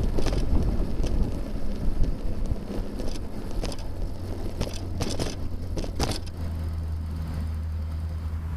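Wind rumbling on the microphone of a bicycle-mounted camera while riding, with several sharp knocks and rattles. About six seconds in the rumble drops away and a steady low hum takes over.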